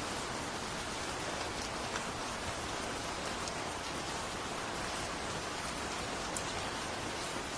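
Steady rain falling, an even hiss with now and then a single drop ticking.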